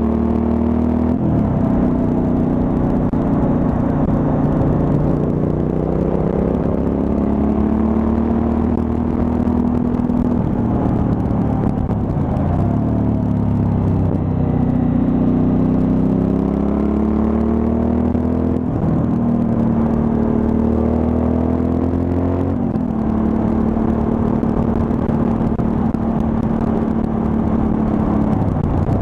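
Suzuki V-Strom 1000's V-twin engine under way on the road. It holds a steady note for stretches, and several times climbs in pitch and drops sharply as the rider accelerates and shifts up a gear.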